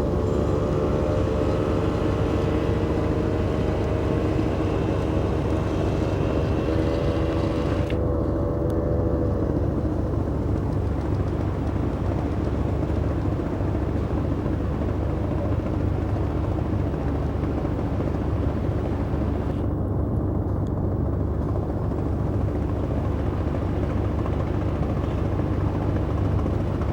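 Speedboat engine running with a loud, steady low rumble; a higher pitched engine whine over it fades out about nine seconds in.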